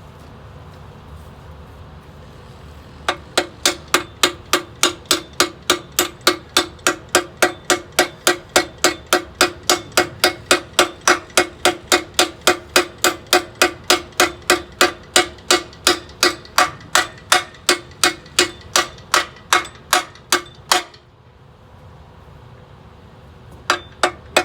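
A hammer striking steel in a fast, steady run of about three blows a second, each blow ringing. The run stops about 21 seconds in and starts again briefly near the end.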